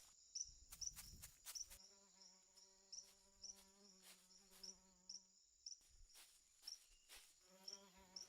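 Faint rainforest insect chorus: a steady high trill with short chirps about twice a second. A low, even buzz comes in about two seconds in, stops around five seconds, and returns near the end, with scattered light clicks throughout.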